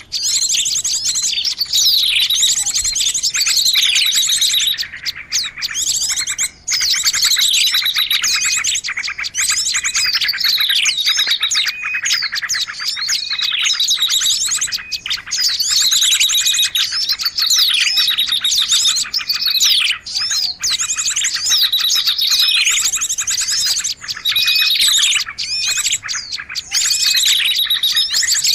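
A dense, continuous chorus of many small birds chirping and calling, with falling chirps repeated every second or two over fast trills. This is a noisy bird-lure recording (suara pikat) used to draw birds in.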